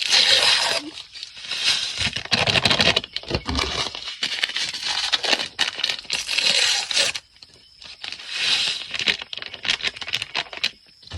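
Paper packets of instant grits being torn open and crinkled by hand, in a run of irregular rustling bursts.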